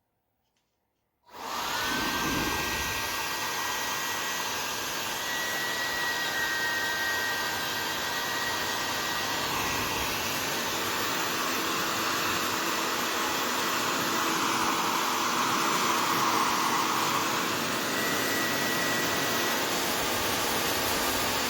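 AIUNAOM foldable 2400 W travel hair dryer switched on about a second in: its motor whine glides up, then it runs with a steady rush of air and a thin whistle. It cuts off suddenly at the end.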